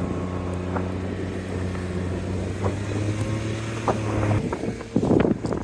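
Car engine holding a steady, even drone that drops away about four seconds in; near the end wind rushes loudly over the microphone.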